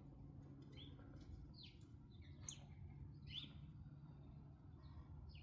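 Faint wild songbird chirps: short, falling chirps spaced about a second apart, over a low steady background hum.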